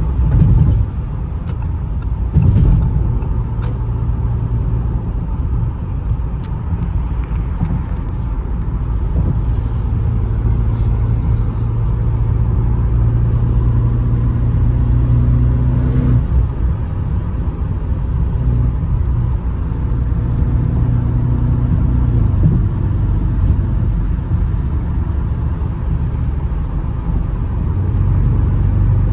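Audi RS7 Performance's twin-turbo V8 and road noise heard from inside the cabin while cruising: a steady low drone whose pitch steps a few times. A brief thump about two and a half seconds in.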